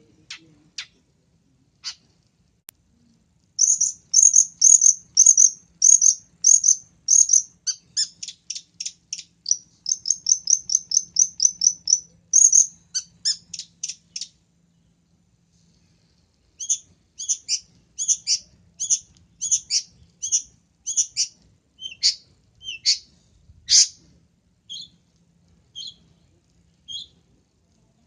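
Long-tailed shrike (pentet) calling: a fast series of short, sharp, high chirps, three or four a second, that breaks off about fourteen seconds in, then resumes more slowly and thins to single notes about a second apart.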